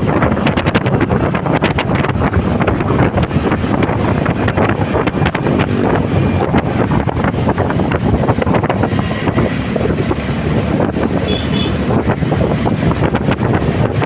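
Wind buffeting the microphone of a moving motorcycle, over a steady rumble of engine and road noise.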